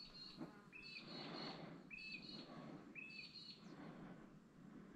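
A bird gives a faint two-note call, a short lower note followed by a higher one, about once a second, four times, then stops.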